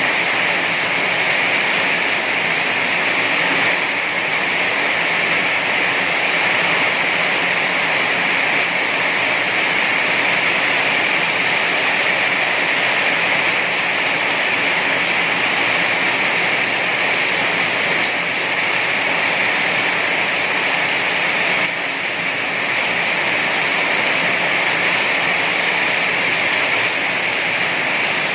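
Heavy rain falling in a steady, dense hiss, with a brief dip in level about 22 seconds in.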